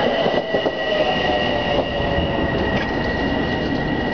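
Bombardier M7 electric commuter train rolling past, a steady rumble of wheels on rail with a steady high-pitched whine over it.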